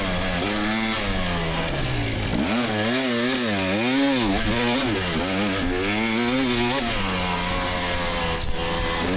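2024 GasGas EX300 two-stroke engine revving under a racing rider, holding a fairly steady pitch, then rising and falling quickly over several seconds as the throttle is worked on and off, then steadier again. A brief sharp click comes near the end.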